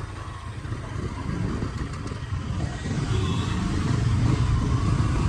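Motorcycle engine running under way, a dense low rumble that grows louder through the second half as the bike speeds up.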